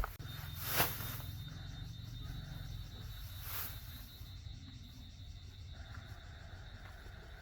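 Insects chirping steadily in the background, with a faint low hum early on. Two brief hissing noises come in, one a little under a second in and one at about three and a half seconds.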